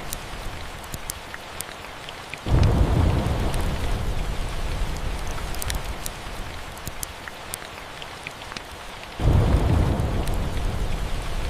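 Steady rain with two rolls of thunder, one about two and a half seconds in and another about nine seconds in, each coming in suddenly and dying away slowly as a low rumble. Scattered sharp crackles from a wood fire sound over the rain.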